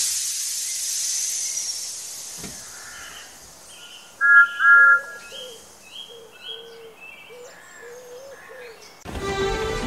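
Birds chirping: a run of short, repeated calls, two of them louder about four seconds in. A hiss at the start fades away over the first two seconds, and music begins near the end.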